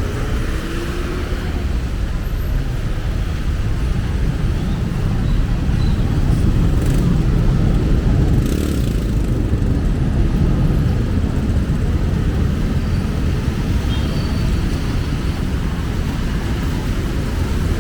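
City street traffic: a steady low rumble of passing cars and motorcycles, swelling a little around the middle.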